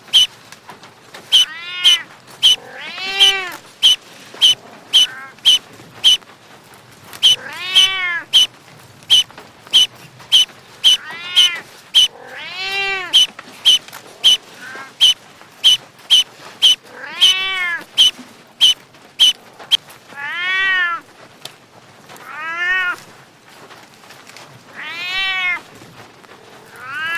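A cat meowing repeatedly, a dozen or so separate meows that each rise and fall in pitch. A rapid series of short, sharp, high clicks runs under the meows about twice a second, and stops about two-thirds of the way through.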